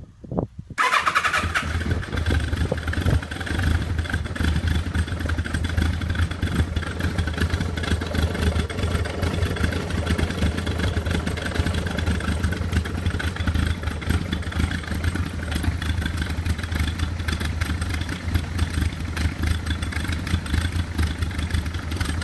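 Kawasaki ZRX1200R inline-four engine with Keihin FCR carburettors cold-starting after seven weeks unused: a brief crank on the electric starter, then it catches just under a second in without any throttle pumping and settles into a steady idle.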